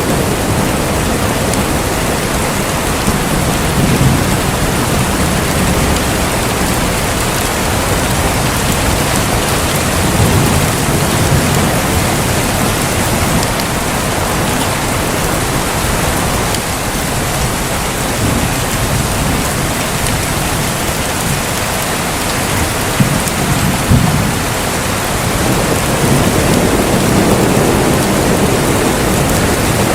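Heavy, steady rain pouring down, with low rolls of thunder rumbling up several times.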